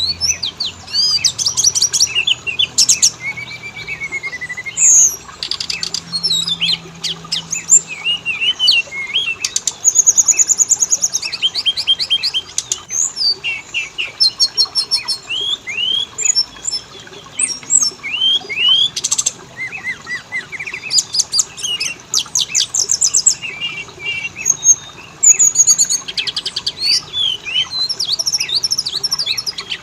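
Oriental magpie-robin song, as used in a recorded lure: a continuous, varied stream of whistled notes that rise and fall, rapid trills and harsh buzzy phrases, with hardly a pause.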